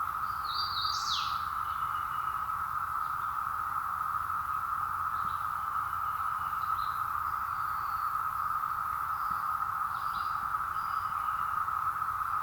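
A chorus of cicadas droning steadily at one even pitch, unbroken throughout. A bird chirps about a second in, with a few short chirps later.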